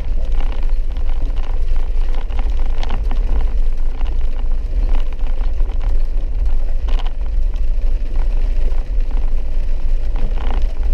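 Steady low rumble of a vehicle driving a rough dirt road, with a few short knocks and rattles from bumps.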